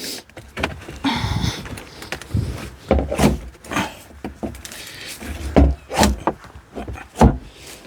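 Irregular knocks and thumps of a crowbar prying and banging at a stuck plastic fuel tank in a boat hull. The tank is still held fast somewhere.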